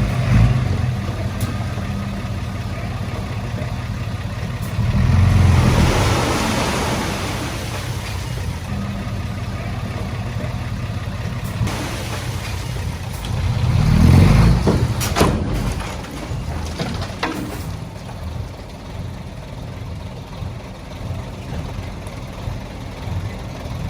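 Diesel engine of heavy earthmoving machinery running steadily, swelling louder twice under load: about five seconds in and again around fourteen seconds in.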